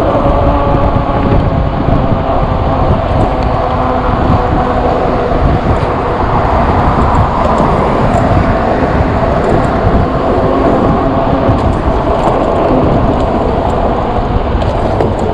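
Wind rushing over the microphone of a moving e-bike, with a steady, even hum of a few held tones underneath.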